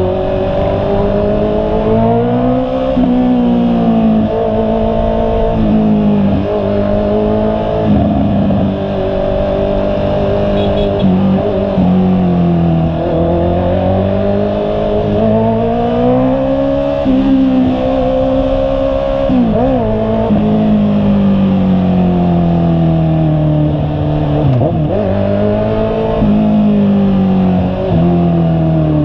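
Honda CB650R's inline-four engine running under way, its pitch climbing and then dropping again several times as the throttle opens and closes.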